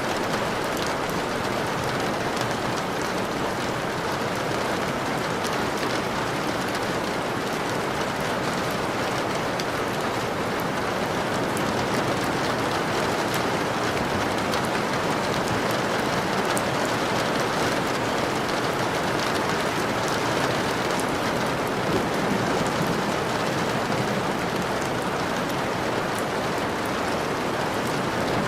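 Steady rain falling, an even hiss with the ticks of single drops scattered through it.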